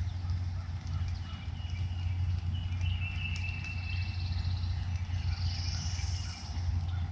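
Woodland ambience: faint songbirds whistling and twittering over a steady low hum.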